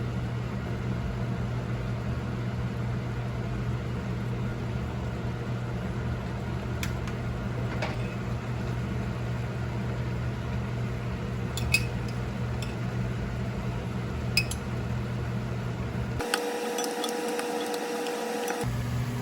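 Steady low mechanical hum, like a kitchen appliance running, with a few light clicks or clinks of kitchenware. Near the end the hum drops out for about two seconds and a higher steady tone takes its place.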